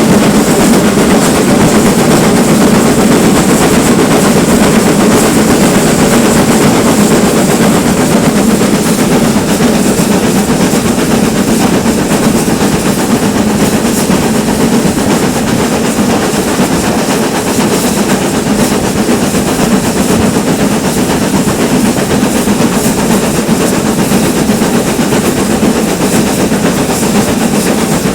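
Steam train hauled by a GWR Manor class locomotive running on the line: a steady loud rumble with faint rapid clicks over it.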